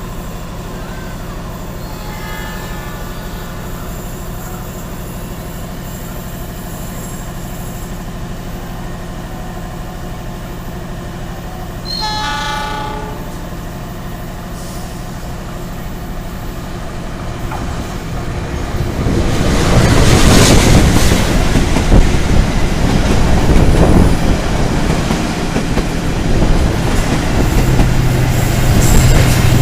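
Diesel train horn sounding twice, faintly and then louder about halfway through, over a steady low hum. Then another train rushes past close by with loud wheel clatter as two passenger trains cross at a station.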